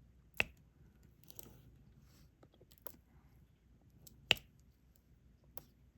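Sharp clicks of a diamond-painting pen pressing small resin drills onto the adhesive canvas, with two loud clicks about half a second and four seconds in, fainter ticks between and a soft rustle of handling.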